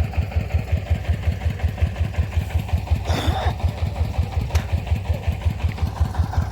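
Engine of a rice threshing machine running steadily with a regular low thump, about six beats a second. A brief rushing burst comes about three seconds in, and a sharp click a little later.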